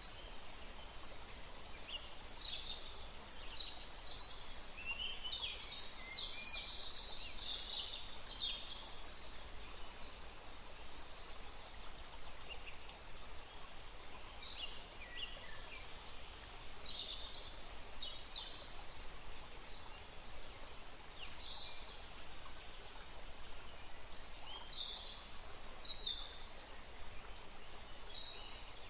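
Small birds chirping and trilling in short bursts, in clusters through the stretch, over a steady soft rush of outdoor background noise.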